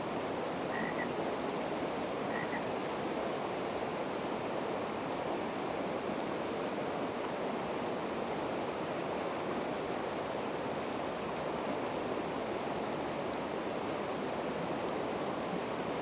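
Steady rushing of a river flowing nearby, with a few faint crackles from a campfire of split evergreen wood. Two brief high chirps come about a second in and again at about two and a half seconds.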